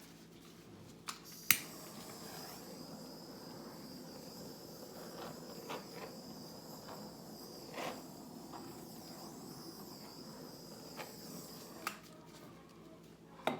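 Hair dryer switched on with a click, running steadily with a high-pitched whine and airflow hiss, then switched off with a click about ten seconds later. It is blowing fluid acrylic paint across the canvas. A few light knocks come in between.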